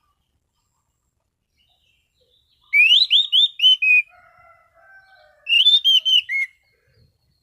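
Anis cendana thrush singing: two clear, loud whistled phrases of about five quick notes each, the first about three seconds in and the second near six seconds, with a soft, lower warbling between them.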